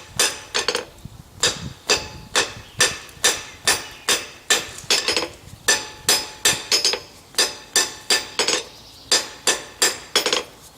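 Hand hammer striking a hot 5/8 inch square steel bar on an anvil, about two to three blows a second with two short pauses, each blow leaving a high metallic ring. The blows are knocking the corners off the bar to round its edges.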